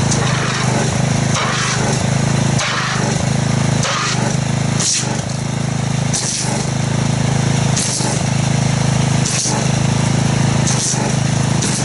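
Pressure washer running with a steady motor hum while its jet sprays into a wash bucket, aerating car soap into foam. A hissing surge recurs about every second and a half.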